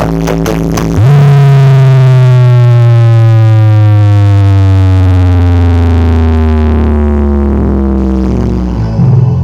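Massive sound-horeg carnival sound system playing electronic dance music very loud. About a second in, the beat stops and a deep, sustained synth tone with many overtones slides slowly downward for about eight seconds. The beat comes back near the end.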